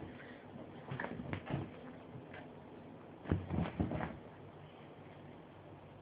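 A pinscher playing on a bed: scattered soft thumps and scuffs, a few about a second in and a quicker run of them about three to four seconds in.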